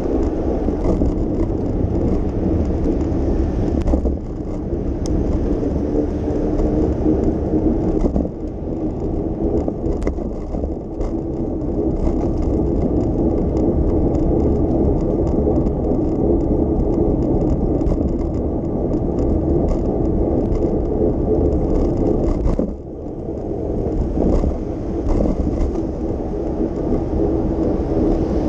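Ride noise from a bicycle on city streets: a steady low rumble of tyres on the road, with small clicks and rattles from the bike. The rumble briefly drops away about three-quarters of the way in.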